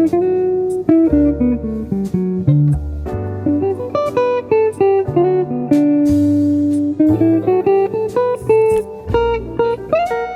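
Guitar music with a bass line: a run of plucked notes, most of them short, with a few held longer.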